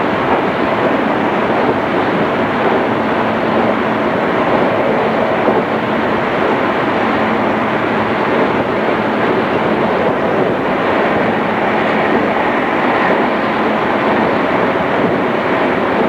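JR East 211 series electric multiple unit running at steady speed, heard from inside the carriage: an even rumble of wheels and running gear with a faint steady hum.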